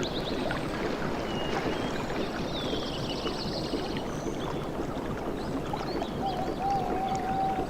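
Surf washing on a beach, a steady rush of water, with birds chirping and whistling over it; a rapid series of high chirps a few seconds in and a long whistled note near the end.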